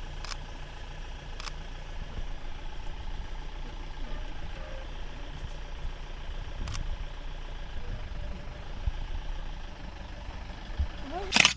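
A vehicle engine idling steadily, with a few faint clicks, and a short loud burst just before the end.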